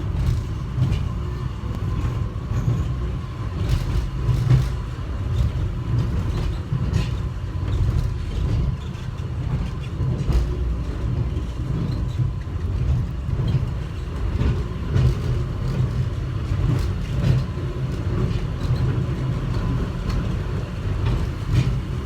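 Airport subway train running between stations, heard from inside the car: a steady low rumble with occasional light clicks and rattles.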